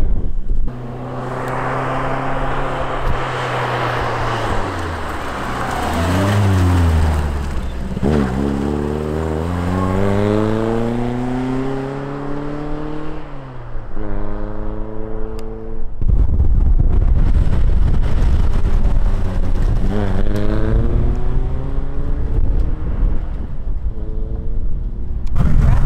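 A hill-climb car's engine accelerating hard, its pitch climbing and then dropping back at gear changes several times. In the second half the engine grows fainter under loud wind buffeting on the microphone.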